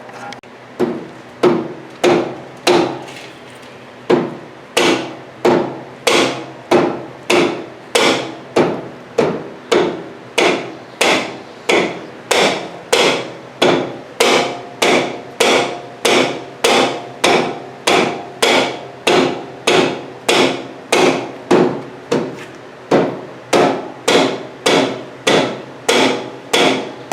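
A hammer striking metal over and over at an even pace, about three blows every two seconds, each blow ringing briefly, with one short pause a few seconds in.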